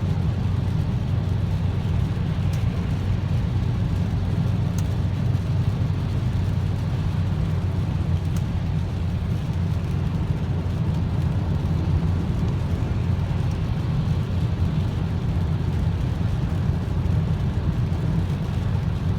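Steady road and engine noise of a Renault Safrane 2.5i 20V's five-cylinder engine cruising on a wet motorway: a low, even rumble with a few faint ticks.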